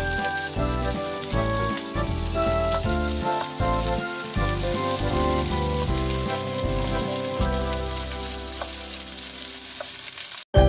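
Sliced onions sizzling in hot oil in a non-stick frying pan as they are stirred with a wooden spatula, with background music over it. The music fades out about ten seconds in and drops to a brief silence.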